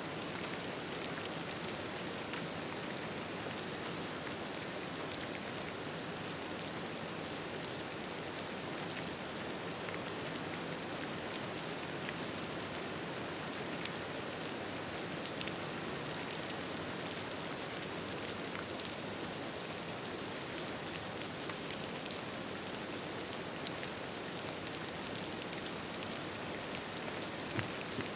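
Steady rain, an even hiss with scattered light ticks of drops, and one sharper click near the end.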